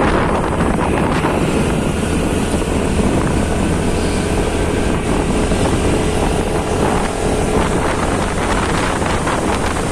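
Wind rushing over the microphone of a moving motorcycle, with the engine and road noise running steadily underneath.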